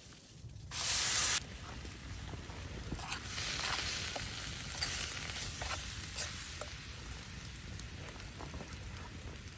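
Hissing noise with scattered sharp crackles: a short loud hiss about a second in that cuts off suddenly, then a softer hiss that swells and fades over the next couple of seconds, over a steady low rumble.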